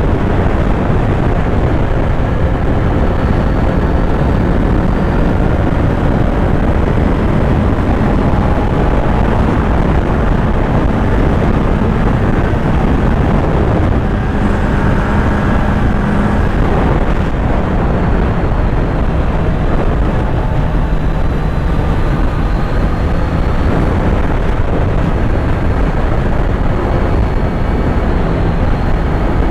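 Kawasaki Z900's inline-four engine running while the motorcycle is ridden, under a steady, dense low rush. Its tone shifts in pitch about halfway through, as the revs change.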